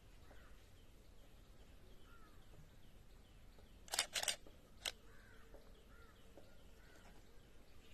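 Faint outdoor ambience with small birds chirping softly and repeatedly. About four seconds in come three short, loud, harsh sounds: two close together, then one more about half a second later.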